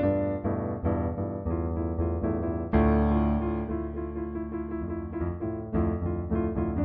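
Improvised solo piano music: a run of single notes and chords, with a fuller chord struck a little under three seconds in and another near the end.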